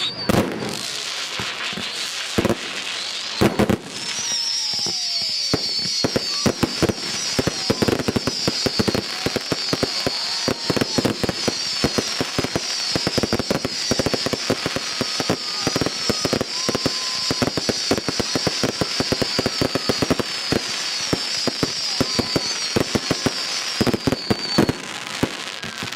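Fireworks display: a dense run of rapid bangs and crackling, with a shrill, fast-warbling whistle joining about four seconds in and running until shortly before the end.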